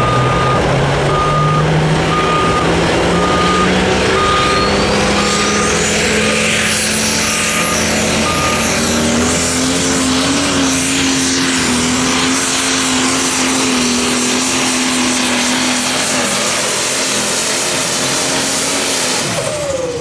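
Turbocharged diesel pulling tractor under full load. The engine note climbs over the first half and then holds steady, while a high turbo whistle rises and stays up. The engine cuts back sharply just before the end. A short beep repeats about once a second through the first half.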